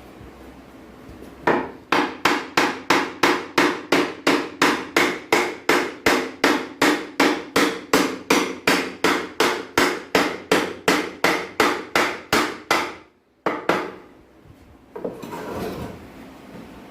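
Hammer blows struck in a steady rhythm of about three a second for some eleven seconds, each with a short ring, then one last single blow and a softer noise near the end.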